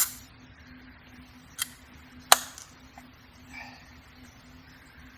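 A few sharp clicks or knocks, three clear ones within about two and a half seconds and a weaker one after, over a faint steady hum.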